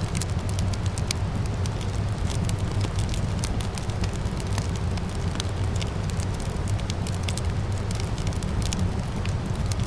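Wood fire burning in a fireplace, crackling with many quick, irregular pops over a steady low rumble.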